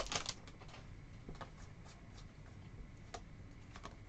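Faint, scattered clicks and light rustling of trading cards being handled and flipped through by hand.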